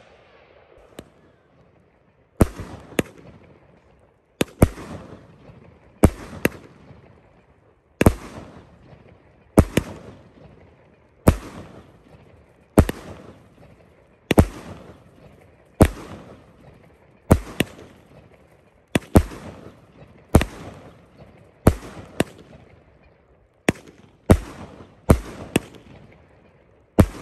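Fireworks going off in a regular series of sharp bangs, about one every second and a half, each followed by a fading crackle.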